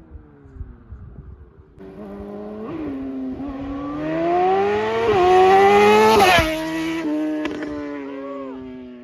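Tuned 2020 Suzuki GSX-R750 inline-four with a slip-on exhaust accelerating hard: the revs climb, dip at two quick-shifter upshifts, and at its loudest the pitch drops sharply as the bike passes, then the sound fades away.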